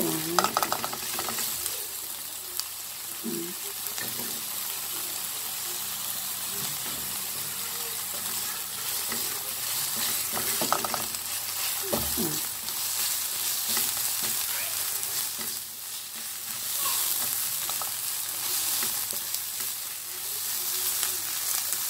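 Chopped onion, garlic and sliced fish cake sizzling steadily in hot oil in a nonstick pan, stirred with a spatula that scrapes and knocks against the pan now and then.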